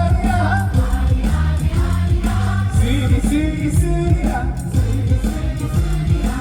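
A man singing a Korean song live through a PA system over amplified backing music with a steady beat.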